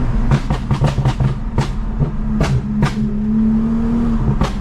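Toyota Mark X V6 with a modified exhaust, heard from the car: the engine drone drops away as a rapid run of sharp exhaust pops and crackles fills the first three seconds, typical of lifting off the throttle. The drone returns briefly, and two more pops come near the end.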